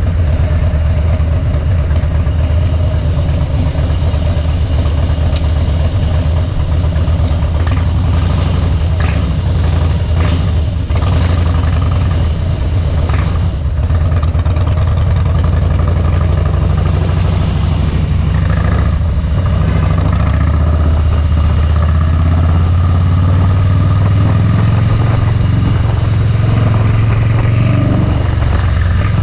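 2013 Harley-Davidson Softail Deluxe's V-twin running under way through Vance & Hines Straight Shots slip-on mufflers, with a few brief clatters in the middle. About two-thirds of the way through, the engine note climbs as the bike speeds up.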